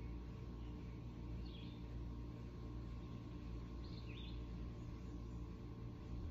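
A bird calling outdoors: a short chirp repeated twice, about two and a half seconds apart, over a steady low background rumble.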